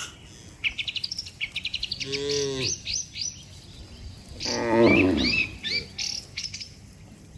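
Cattle lowing: a short low moo about two seconds in and a louder, longer moo past the middle, with small birds chirping throughout.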